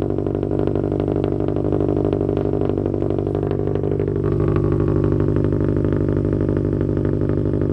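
Subaru WRX STI's 2.5-litre turbocharged flat-four (EJ257) idling steadily on a cold start, through unequal-length headers, a catless downpipe and a dual cat-back exhaust. About four seconds in it grows slightly louder and its tone shifts.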